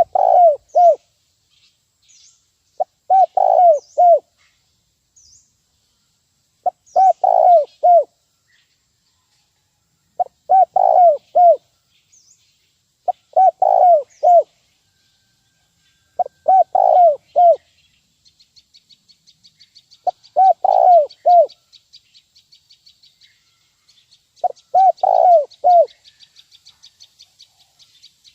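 Spotted dove (terkukur) cooing, a phrase of three or four quick coos repeated every three to four seconds, eight times over: the nguku call used as a lure. Faint high chirps of other birds sound between the phrases, and about two-thirds of the way in a faint rapid high ticking starts.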